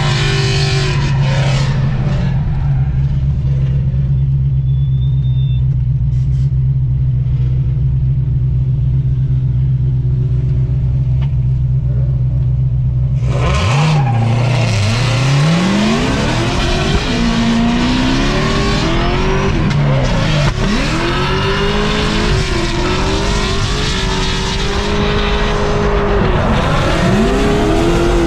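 Supercharged LS7 V8 of a C6 Corvette Z06 holding a steady low note, then about halfway in revving hard, its pitch swooping up and down again and again as the car is drifted.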